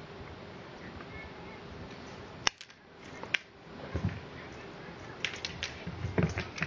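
Several cats playing and pouncing: scattered sharp clicks and soft low thumps, after a stretch of steady faint hiss.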